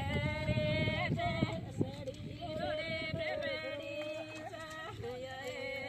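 A voice singing long, held notes with small wavering turns, over a low rumble.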